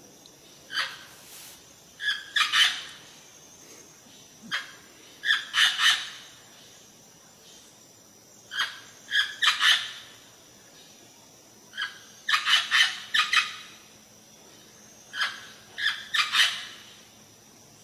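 A white parrot giving short, harsh, raspy calls in groups of two to four, repeating every three to four seconds.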